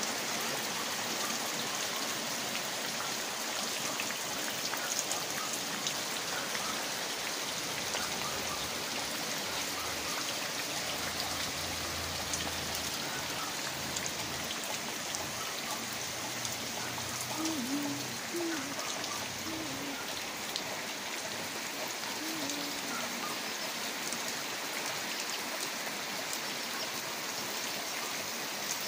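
Heavy rain falling steadily on the ground, road and foliage.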